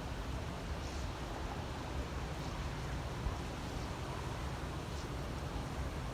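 Strong wind blowing across the microphone: a steady low rumble with hiss.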